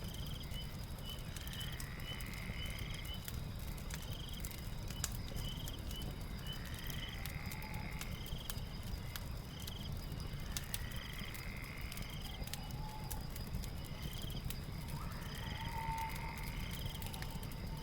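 Fireplace crackling over a steady low rumble, layered with night-time creature sounds. A steady high whine runs throughout, with short chirps repeating about once or twice a second and a longer call about every four seconds. A steady mid-pitched hum joins near the end.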